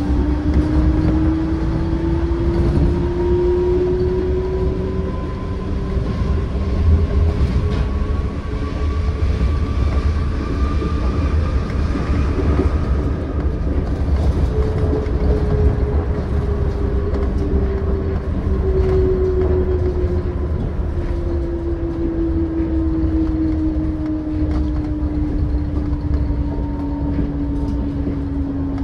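Yurikamome rubber-tyred automated train running. Its traction-motor whine climbs in pitch over the first dozen seconds as it speeds up, then falls steadily through the second half as it slows, over a steady low rumble.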